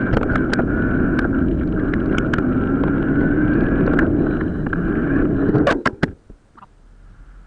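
Sped-up bicycle riding noise: steady wind on the microphone and tyre rumble, with scattered rattling clicks. It cuts off about six seconds in.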